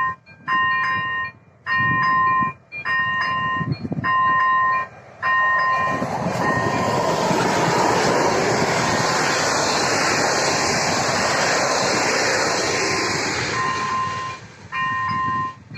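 AŽD 97 level crossing's electronic warning bell ringing in even pulses about once a second. A few seconds in, a train runs through the crossing and its rumble and wheel noise drown the bell for about eight seconds, then the ringing comes back.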